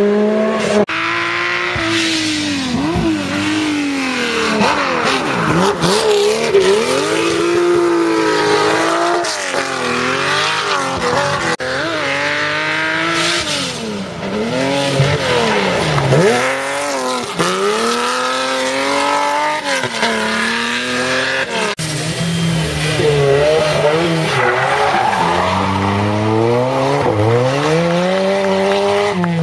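Rally car engines revving hard, the pitch climbing and dropping again and again through gear changes, with one car after another on a twisting special stage.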